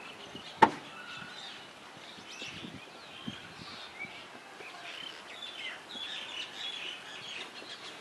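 Birds chirping and calling throughout, many short high calls overlapping, with one sharp knock about half a second in, the loudest sound, and a fainter click about three seconds in.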